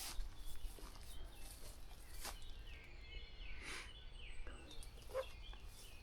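Footsteps swishing through wet grass and undergrowth, a step about every second, with faint birdsong in the background.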